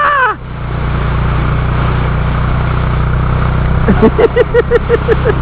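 A steady low drone runs under a person's voice: a falling cry fades out right at the start, and a quick run of short vocal bursts comes in the last second and a half.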